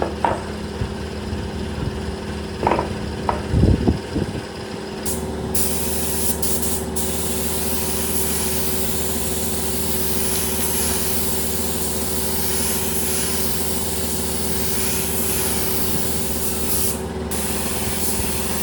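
Compressed-air spray gun hissing over the steady hum of a running machine, with a few knocks in the first seconds. The spraying starts about five seconds in and pauses briefly twice.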